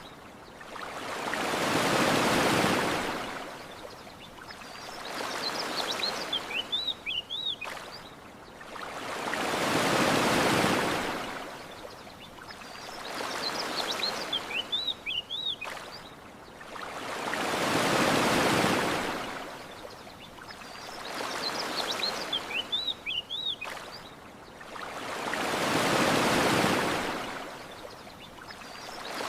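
Gentle ocean waves washing onto a shore, swelling and fading about once every eight seconds, four times. Small birds chirp in short high bursts in the lulls between waves.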